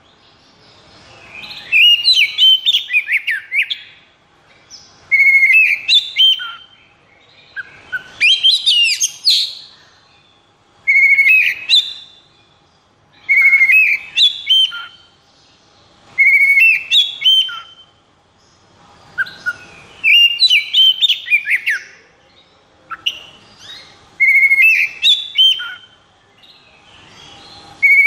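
Oriental magpie-robin (kacer) singing: loud, varied whistled phrases of one to three seconds with quick rising and falling notes, repeated every few seconds with short pauses between them.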